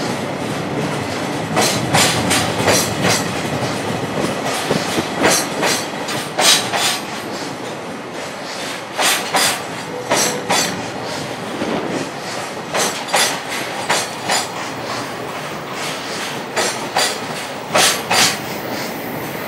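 Container flatcars of a freight train rolling past, a steady rumble of wheels on rail broken by sharp clacks in groups of two or three as the wheels cross the rail joints.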